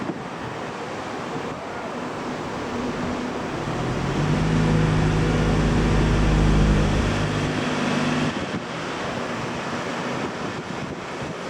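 Strong wind buffeting the microphone throughout. An aircraft's engines pass close by, building to a deep, steady hum about four seconds in that is loudest around the middle and then fades.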